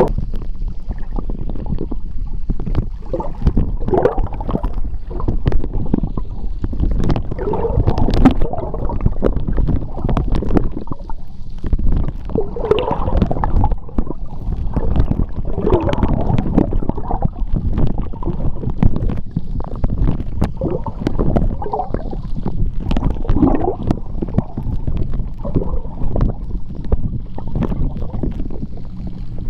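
Seawater heard underwater: a constant low rumble of moving water, with irregular gurgling bubbles and scattered small clicks and ticks.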